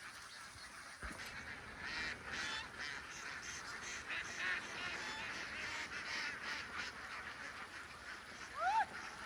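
A large flock of ducks calling together: a dense chorus of overlapping quacks that starts about a second in, with one louder call near the end.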